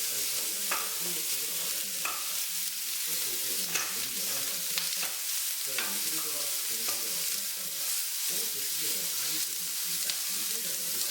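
Food sizzling steadily in a frying pan, with a few light clicks scattered through it, like a utensil touching the pan.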